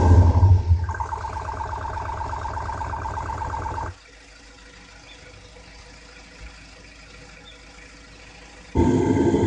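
THOR Active Sound exhaust speaker playing a synthesized engine sound. A loud rev dies away in the first second, then a steady, rapidly pulsing buzz holds for about three seconds and cuts off. After a quiet stretch, a loud low rumble starts abruptly near the end.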